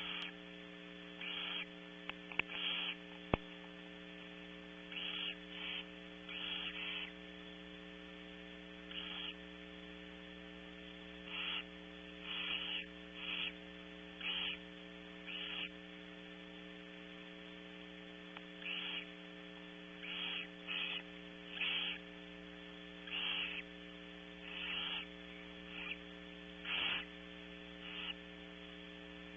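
Barn owls giving repeated short, raspy hissing calls, each about half a second, every second or two, during feeding. A steady electrical hum runs underneath, and there is a single sharp click a few seconds in.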